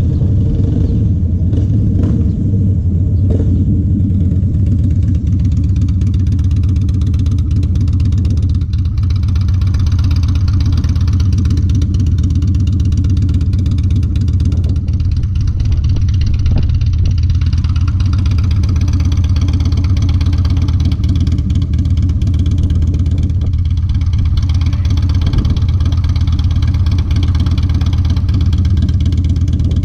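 Harley-Davidson Dyna's V-twin engine idling steadily through TBR aftermarket exhaust pipes.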